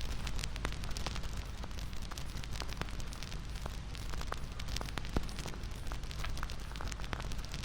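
Wood fire crackling: a steady hiss with frequent short pops and snaps.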